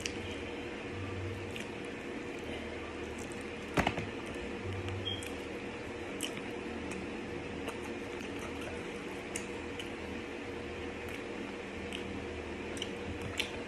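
Close-up chewing and mouth sounds of eating a sauced fried chicken tender: small wet clicks and squishes over a steady room hum, with one louder tap about four seconds in.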